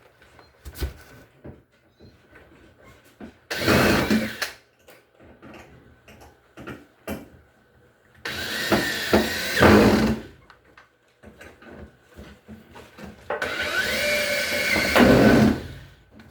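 Power drill run in three short bursts, its motor whine rising and then holding steady each time, with clicks and knocks of handling between, as screws are driven or removed on the washer.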